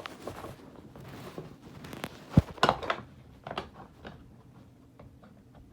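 Plastic clicks and knocks from handling a child's battery-powered learning table just after its batteries are fitted, with one sharp thump a little over two seconds in followed by a quick run of clicks.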